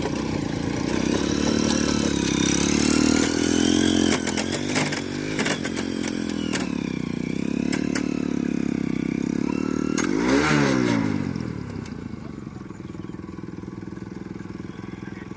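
Engine running, its speed rising and falling, with bursts of clatter. There is a quick sweep in pitch about ten seconds in, then it runs steadier and quieter for the last few seconds.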